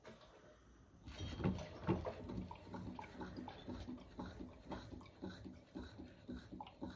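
An animal making short rhythmic sounds, about two a second, starting about a second in.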